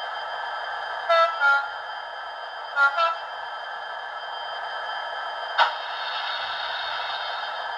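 Hornby TTS sound decoder in a model Class 66 diesel locomotive playing the engine sound through its small speaker as a steady, thin hum, with the two-tone horn sounded twice, about a second and three seconds in. A single sharp click comes a little past halfway.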